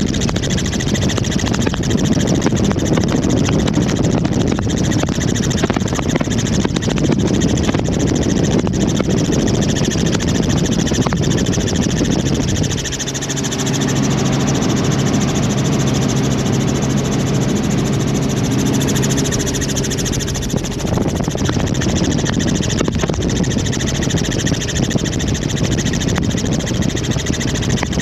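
Helicopter in flight heard from on board: a loud, steady roar of engine, rotor and rushing air. About halfway through, a steady hum with even overtones comes through for several seconds, then sinks back into the roar.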